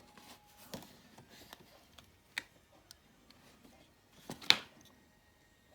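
Hard plastic parts of a Generation Toy Longhaul transforming figure clicking and knocking as they are turned and fitted together: scattered small clicks, with a louder clatter after about four seconds.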